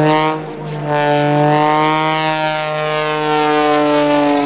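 Pitts S2S Viper aerobatic biplane's 400-horsepower engine and propeller droning loudly overhead during aerobatics. After a brief dip about half a second in, the pitch rises gently and then sags near the end as the plane manoeuvres.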